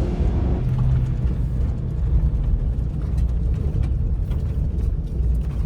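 Pickup truck driving on a dirt trail: a steady low engine and road rumble, with faint scattered knocks.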